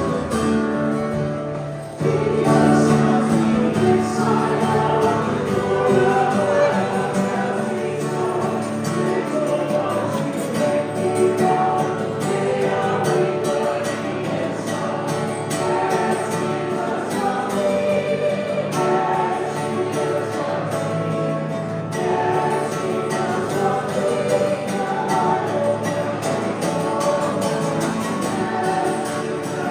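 Congregation singing a hymn with instrumental accompaniment. The singing comes in fully about two seconds in.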